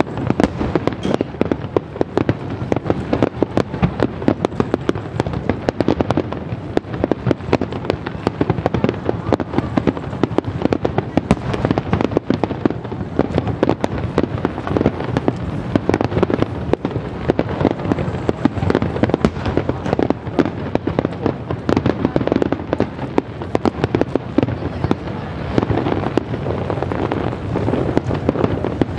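Aerial fireworks shells bursting in a dense, continuous barrage of bangs and crackles.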